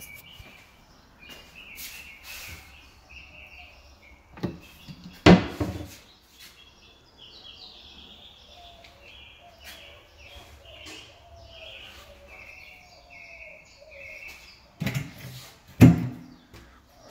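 Birds chirping over and over in short bursts, with two loud knocks, one about five seconds in and one near the end, each just after a smaller knock.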